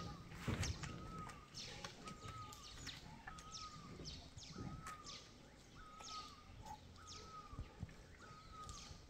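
Birds calling: a short clear note repeated about once a second, over quick high chirps that fall in pitch, with a few soft thumps from the pandas scuffling.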